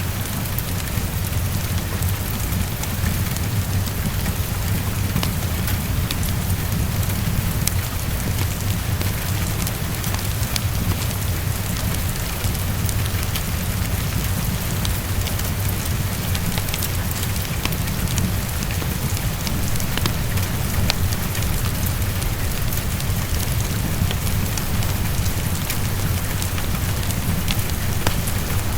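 Heavy rain falling steadily against a window, with a steady low rumble underneath. Scattered sharp ticks of a fireplace crackling are mixed in.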